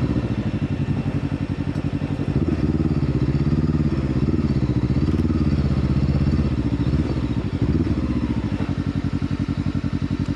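Motorcycle engine running under load, its pitch rising and falling as the throttle opens and closes, with a fast pulsing exhaust beat.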